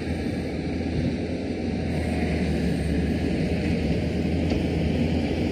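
Heavy construction machinery running steadily, its diesel engine giving a low, even rumble.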